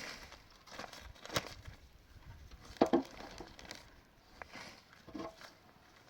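Irregular knocks and handling noises, the loudest a double thump about three seconds in, with softer knocks around it.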